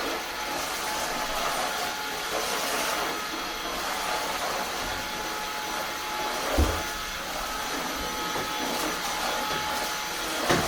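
Eufy HomeVac S11 cordless stick vacuum running steadily, a motor hiss with a faint whine, with one sharp knock about two-thirds of the way through and another near the end.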